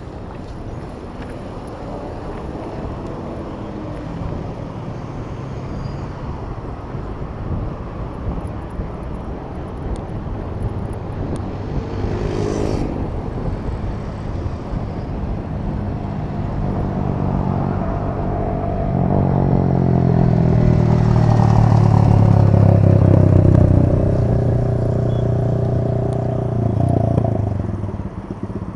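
City street traffic heard from a moving bicycle, with wind and road noise throughout. A motor vehicle's engine draws close and grows loud past the midpoint, then falls away near the end.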